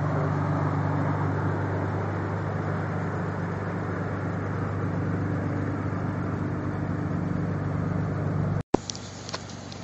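Nissan 300ZX twin turbo's 3.0-litre V6 idling steadily. Near the end the sound drops out abruptly and comes back as a quieter engine sound with a few light clicks.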